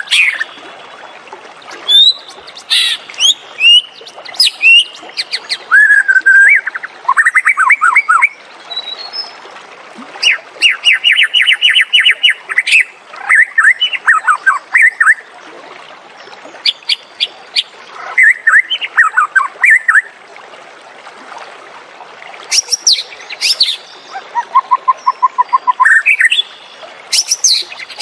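White-rumped shama (murai batu) singing: a varied song of whistled phrases, fast runs of sharp repeated notes and trills, broken by short pauses.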